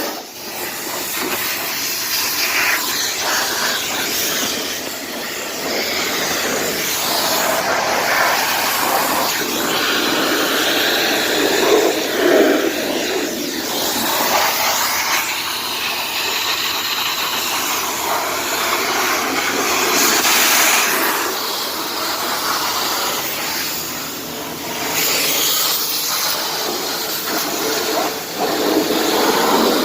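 Pressure washer jet spraying water onto a car, a loud steady hiss that cuts in suddenly at the start and swells and eases as the spray moves.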